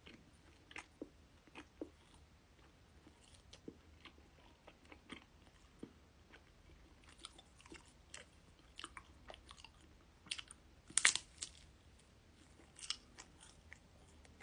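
Close-up biting and chewing of a honey monaka, its crisp rice-wafer shell crackling in scattered crunches, with the loudest crunch about eleven seconds in.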